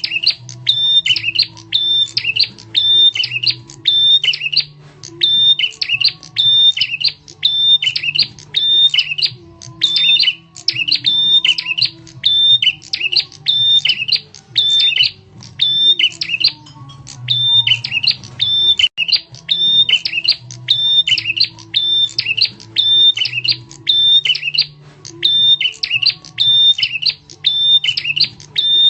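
Prenjak tamu bird lure call: loud, sharp chirping phrases repeated rapidly, several a second, with brief pauses every couple of seconds.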